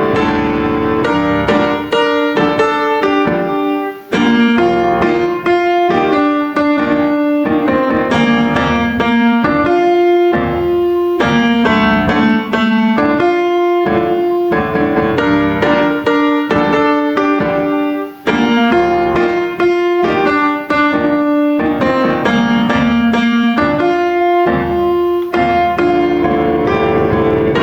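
Background piano music, notes struck in a quick, flowing pattern.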